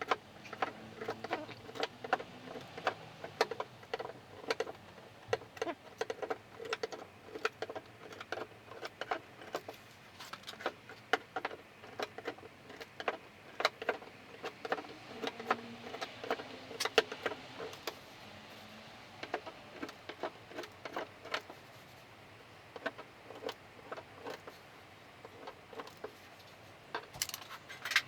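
Hand tools tapping and clinking on car-body sheet metal: irregular light metallic taps, several a second.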